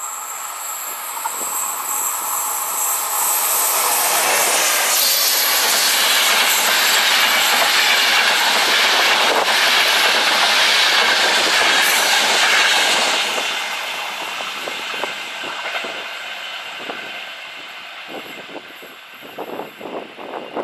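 A passenger train of Intercity coaches passes close by: the rush of wheels on rail builds over the first few seconds, stays loud for about ten seconds, then fades away. A few sharp clacks come near the end.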